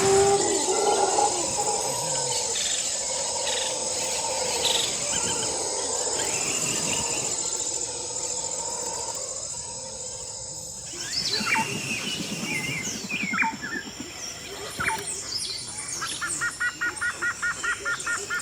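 Wild birds calling over a steady high-pitched drone of insects. From about the middle come short, quick calls, and near the end a fast run of repeated notes, about six a second.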